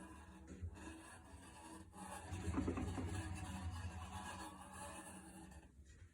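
Samsung washing machine creaking as its drum turns, a faint rubbing creak over a steady low hum, growing louder for a stretch about two seconds in.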